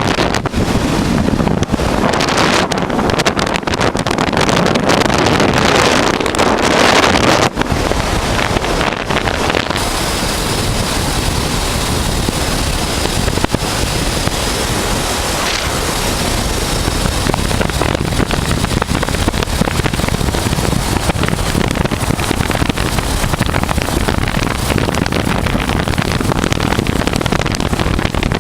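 Wind rushing over the microphone of a moving motorcycle, with the running engine of a 1988 Honda Transalp V-twin underneath. Heavy, gusty buffeting for the first several seconds, then a steadier rush.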